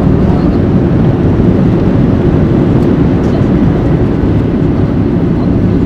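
Loud, steady rumble of a Boeing 737-800's engines and rushing air, heard inside the passenger cabin during the landing.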